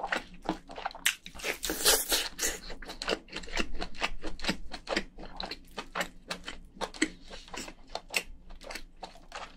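Close-miked chewing of crayfish meat: a steady run of wet mouth clicks and smacks, a little louder about two seconds in.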